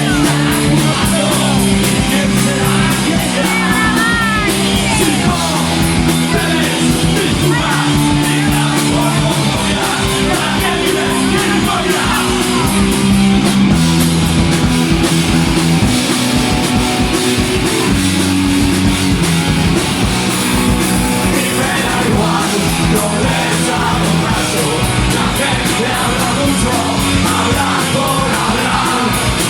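Punk rock band playing live, loud and unbroken: distorted guitars and bass on held chords that change every second or two over a fast, driving drum beat, with shouted vocals.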